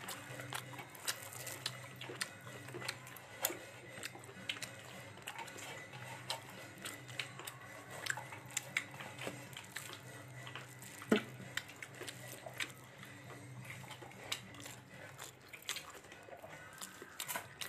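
A person chewing food close to the microphone, with many small, irregular mouth clicks and smacks, over a steady low hum.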